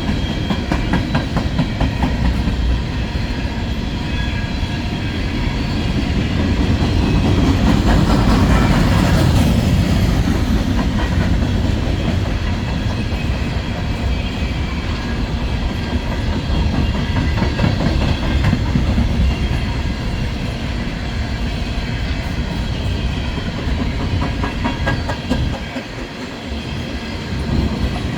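A freight train of empty coal gondolas rolling past, steel wheels clicking over rail joints under a steady rumble that swells for a few seconds and dips briefly near the end.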